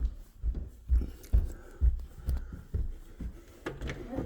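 Footsteps of a person walking through a house, about two dull low thuds a second, close to the microphone.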